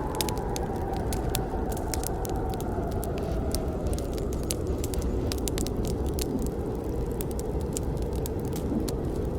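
Campfire burning: a steady low rush of flames under frequent sharp crackles and pops from the burning wood.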